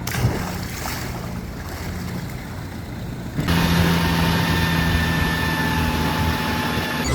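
Longtail boat engine running steadily, with wind and water noise. The engine gets suddenly louder about halfway through, a steady drone with a clear hum.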